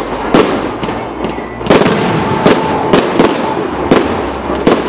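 Display fireworks going off: about eight sharp bangs at irregular intervals, with crackling between them.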